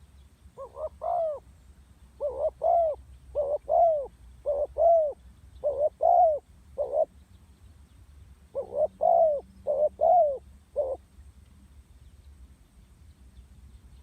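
Female spotted dove cooing: a run of short, arched coo notes, then a pause and a second shorter run starting about eight and a half seconds in. It is the hen's call used to excite cock doves.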